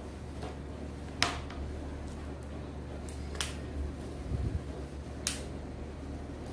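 Three sharp light taps a couple of seconds apart, from cups and a spoon being handled while a substance is put into a cup, over a steady low hum.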